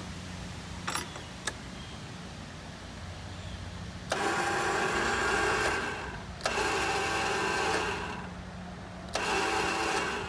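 Two clicks, then the electric starter of a zero-turn mower's Kawasaki 23 hp engine running three times for about two seconds each without the engine catching. The owner says it sounds like the starter and suspects a stuck starter solenoid.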